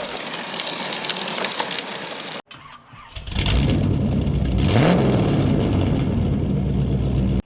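Monster-truck engine sound starting up and revving, with a pitch that rises and falls, coming in about three seconds in. Before it, a steady rushing noise cuts off suddenly.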